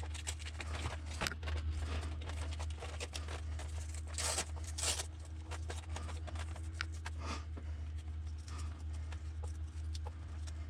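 Hands handling an RC truck's battery and its wire leads: scattered small clicks and rustles, with two short scraping noises about four and five seconds in, over a steady low hum.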